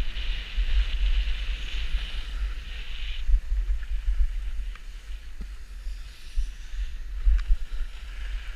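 Wind buffeting the microphone in a heavy, uneven rumble, with a steady hiss over it that drops away about three seconds in.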